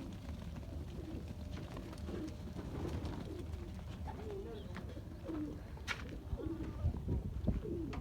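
A dove cooing, a string of low, short, rolling calls that come more often in the second half, over a low rumble. A sharp click sounds about six seconds in.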